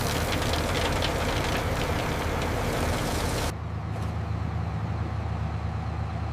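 Corn harvester engine running steadily, with a rough, noisy rattle over a low hum. About three and a half seconds in, the upper noise cuts off abruptly, leaving a duller, quieter engine hum.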